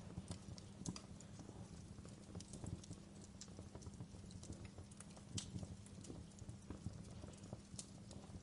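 Wood fire crackling in a fireplace: irregular pops and snaps, several a second, over a low steady rumble.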